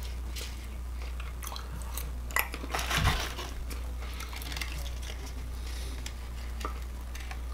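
A person chewing and biting into fried food, with scattered crunches and small clicks.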